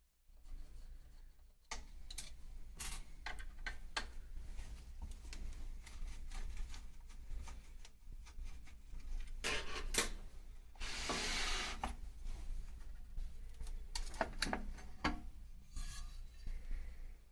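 Hand work on a small engine: rubbing and scraping with scattered clicks and knocks of small parts, and a hiss of about a second and a half near the middle.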